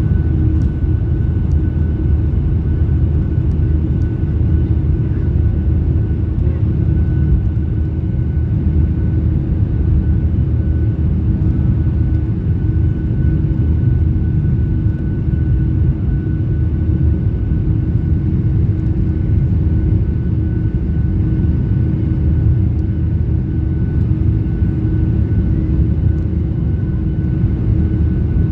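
Steady drone of a Boeing 737-800's CFM56-7B jet engines heard inside the passenger cabin: a constant deep rumble with a faint high whine held on one pitch.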